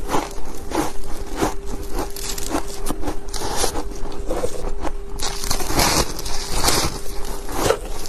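Ice chunks being bitten and chewed close to the microphone: a dense, irregular run of sharp crunches.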